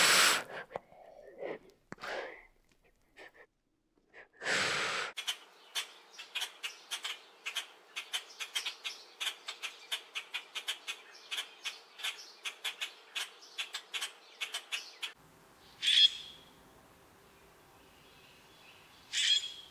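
Bird calls: a rapid run of short clicks, about four a second for some ten seconds, then two loud, short calls near the end. A few loud hiss-like bursts come in the first five seconds.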